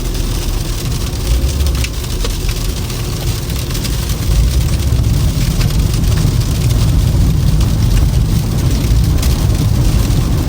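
Toyota Camry driving on a snowy road: a steady low rumble of engine and tyres under a hiss full of small ticks, growing a little louder about four seconds in.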